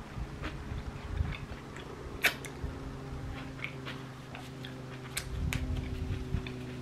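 Close-miked chewing of a toasted French bread sandwich with fresh vegetables: moist mouth clicks and small crunches, with one sharp click about two seconds in. A low steady hum comes in after that and runs under the chewing.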